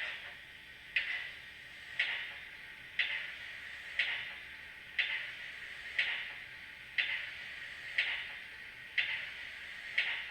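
Model steam locomotive chuffing slowly and evenly, about one sharp puff of hiss a second, each fading away before the next.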